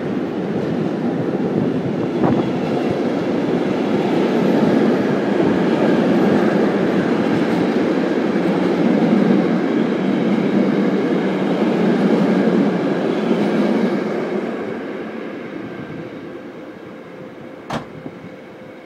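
Container freight train rolling past at close range: a steady rumble of steel wheels on rail that fades away from about fourteen seconds in as the last wagons draw off. A single sharp click near the end.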